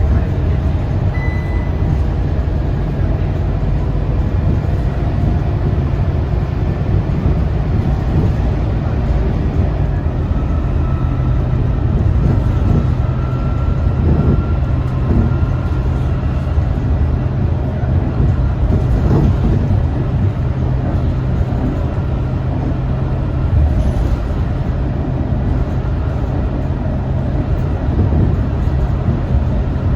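Scania K230UB city bus running steadily under way: a constant low engine drone with road and body noise.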